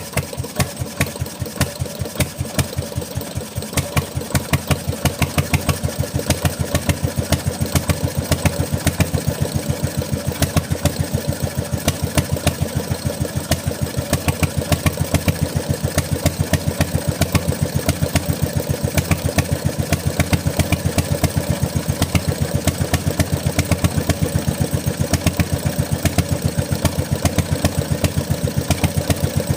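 Bernard Moteurs W14 engine running with a regular beat of firing strokes that quickens and grows louder over the first several seconds, then settles into a steady run.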